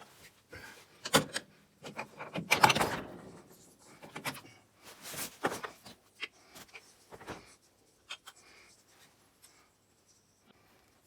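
Metal parts and tools being handled on a snowmobile gearbox: a run of knocks and clinks, with a longer scraping rattle about two to three seconds in and another near the middle, then sparse ticks that thin out over the last few seconds.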